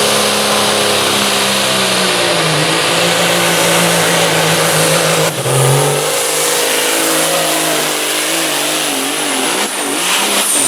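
Cummins KT1150 turbo-diesel of a pro stock pulling semi running at full throttle under load, with a high turbo whistle over the engine note. Its pitch wavers as the load changes, and near the end the sound breaks up with a few knocks and starts to drop away.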